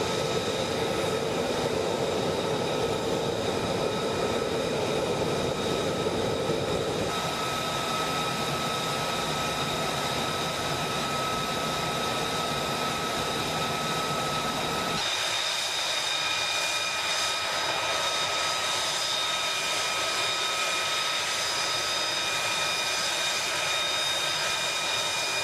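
F-35B fighter jet's engine running loud and steady, a broad rush with high-pitched turbine whine tones over it. The sound changes abruptly about seven seconds in and again about fifteen seconds in, where the low rumble drops away and the whine stands out more.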